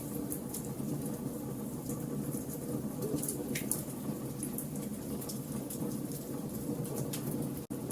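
Wood fire burning in a fireplace: a steady low rumble of flames with frequent sharp crackles and pops from the logs. The sound drops out for an instant near the end.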